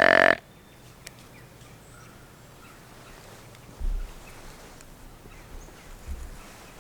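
A loud, buzzy, pitched grunt cuts off just after the start. Then faint open-air quiet with a few dull low thumps.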